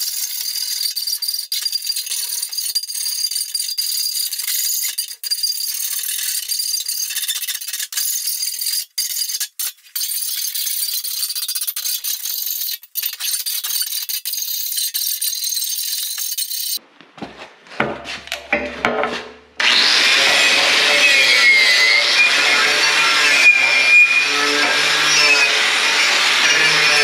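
Hand file rasping along the edges of a 3/16-inch steel plate, a steady scratchy sound with brief gaps, smoothing the cut corners before paint. After a short break about two-thirds of the way in, a louder, fuller abrasive noise takes over for the rest.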